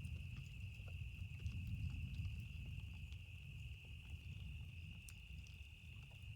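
Campfire crackling, with scattered sharp pops, over a steady high-pitched insect trill and a continuous low rumble.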